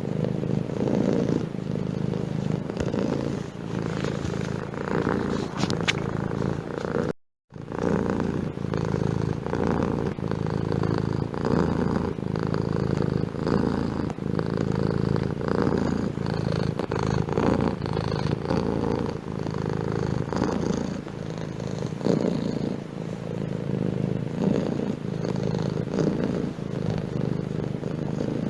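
Domestic cat purring steadily and close up, a continuous pulsing rumble that breaks off for a moment about a quarter of the way through.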